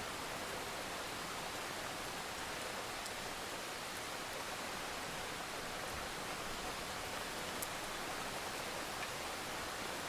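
Steady rainfall: an even hiss of rain with a few faint high drop ticks, one a little louder about seven and a half seconds in.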